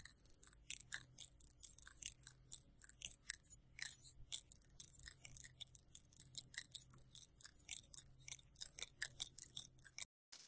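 Faint, irregular crisp clicks and ticks, several a second, over a low steady hum; cuts off just before the end.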